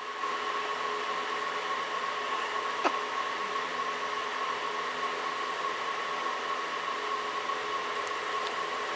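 Steady whirring noise inside a running air-conditioned train coach, with a constant high whine over it. A single sharp click comes about three seconds in.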